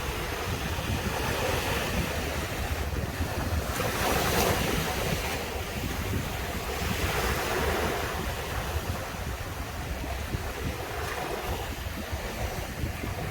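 Surf breaking and washing on a sandy Caribbean beach, in continuous rolling swells with a louder wave break about four seconds in. Wind buffets the microphone with a steady low rumble.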